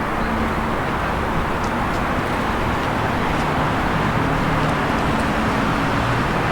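Steady city street ambience: a continuous wash of noise with a low hum beneath it and a few faint ticks.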